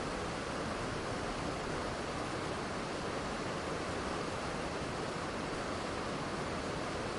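Waterfall pouring steadily, an unbroken even rush of falling water with no changes.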